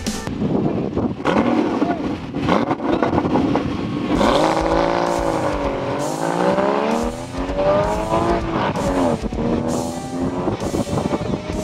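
A Porsche Cayman GTS and an Audi S3 revving and accelerating hard from a standing start. Engine pitch climbs, drops back at a gear change and climbs again, with music with a steady beat underneath.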